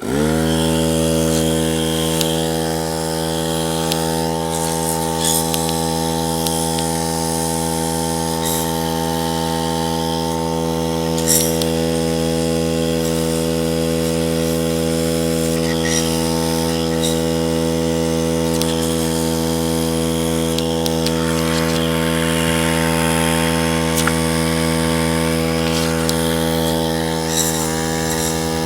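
Electric air compressor switching on, spinning up within half a second and then running steadily, with a hiss of compressed air as the crankshaft's oil passages are blown out.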